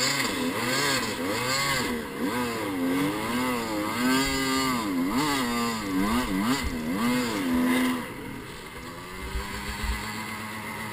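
Dirt bike engine being revved hard up and down in quick throttle blips as the bike claws up a rocky gully. About eight seconds in, the revs drop to a lower, steadier run, followed by a few low knocks.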